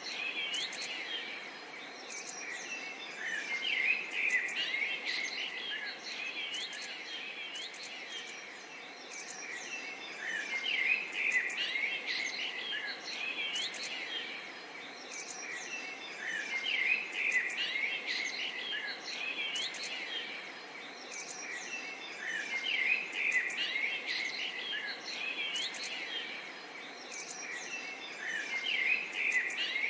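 Many songbirds chirping and singing over one another in a dense chorus, with many short high calls and sweeping notes. The chorus swells and eases in waves about every six seconds over a faint steady background hiss.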